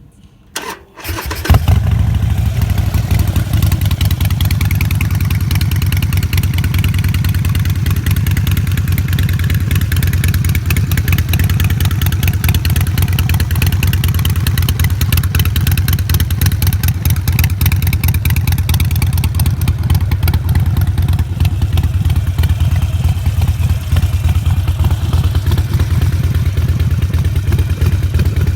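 A 2011 Harley-Davidson Sportster Forty-Eight's 1200 cc air-cooled V-twin with Vance & Hines exhaust pipes being started: a brief spin of the starter, the engine catching about a second and a half in at its loudest, then idling with a steady, even pulse.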